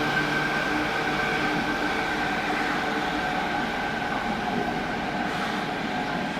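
Nanakuma Line linear-motor subway train running as it pulls away from Ropponmatsu station, a steady rumble with a few held motor tones that eases slightly.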